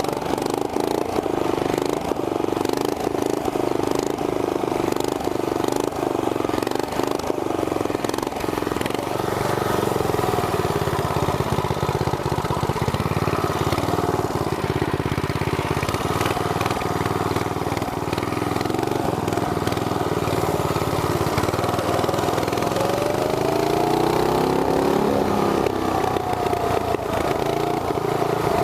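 Small single-cylinder engines of a 212cc go-kart and a mini bike running steadily, with the revs rising and falling in the last few seconds.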